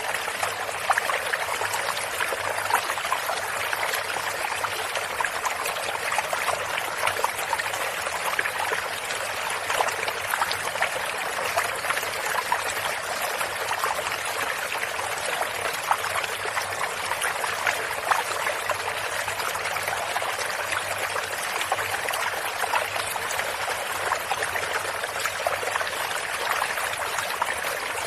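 Shallow stream of water running and trickling steadily, a constant splashing rush filled with many small droplet ticks.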